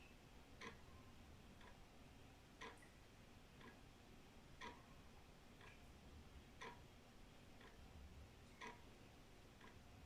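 Old wall clock ticking faintly, one tick a second, a louder tick alternating with a softer tock.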